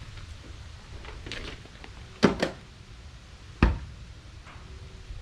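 Hard objects knocked and set down on a work surface: two quick clacks about two seconds in and a single sharp knock a second later, over a low background rumble.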